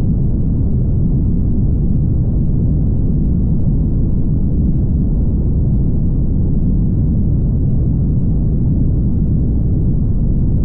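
Steady low rumble of a car driving at speed on a highway: road, tyre and wind noise, unchanging throughout.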